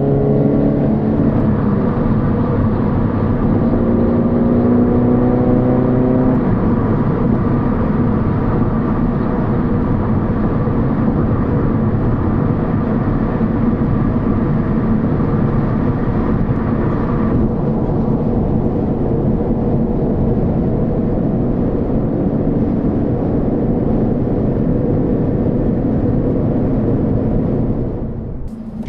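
Flat-four boxer engine of a Subaru BRZ / Scion FR-S / Toyota GT86 through a Borla 11839 axle-back exhaust, heard inside the cabin while driving. The exhaust note rises in pitch as the car accelerates for the first several seconds, then settles into a steady cruise mixed with road noise, and dips briefly near the end, like a gear change.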